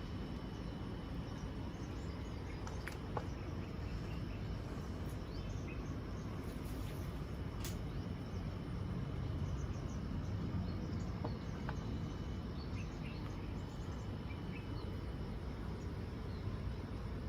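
Outdoor ambience: a steady low rumble with a faint, steady insect drone and a few scattered sharp clicks.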